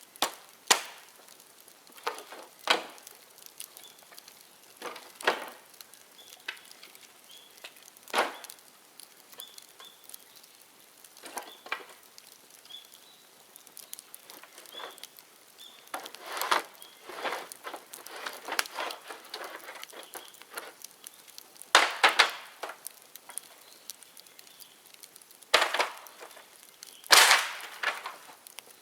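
Dry bamboo burning in a bonfire, crackling with irregular sharp cracks and snaps every few seconds, the loudest ones in the last third.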